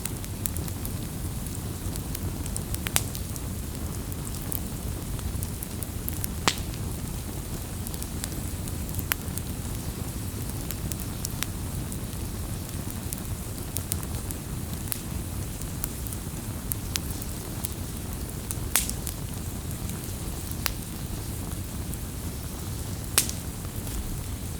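Campfire burning: a steady low rumble of flames with sharp crackles and pops every second or two.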